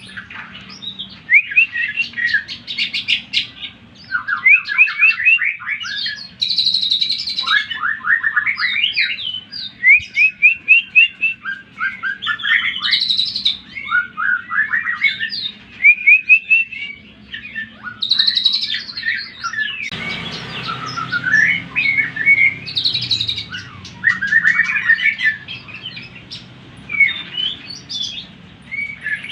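Green leafbird (cucak ijo) singing a fast, varied song of rapid trills and sliding chirping phrases with hardly a pause, the kind of provoking song used to rouse other cucak ijo.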